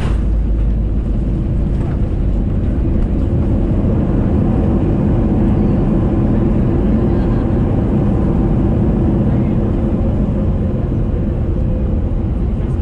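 Steady cabin rumble of an Airbus A320neo with CFM LEAP-1A engines during the landing, engine and airflow noise heaviest in the low end with a faint hum over it. A short click right at the start.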